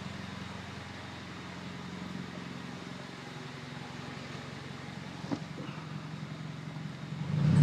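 2008 Honda Civic's R18 1.8-litre four-cylinder idling steadily through a Skunk2 Megapower cat-back exhaust and Weapon R header, a low even drone. A rev begins right at the end.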